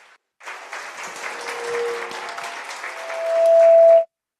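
Audience applauding, with a microphone feedback tone from the PA appearing partway through. The feedback swells until it is the loudest sound, then everything cuts off suddenly about four seconds in.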